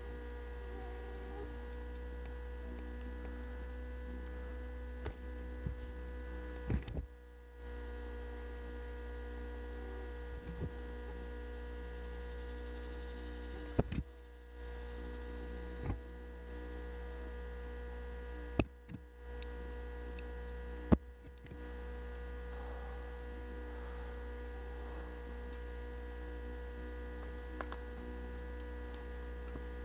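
Steady electrical hum made of several steady tones, broken by a handful of sharp clicks, some followed by a brief dip in the hum.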